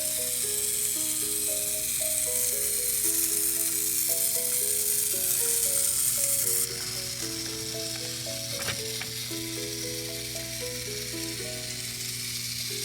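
A simple melody played one note at a time over a steady high hiss; the hiss drops in level about two-thirds of the way in, and there is a single click shortly after.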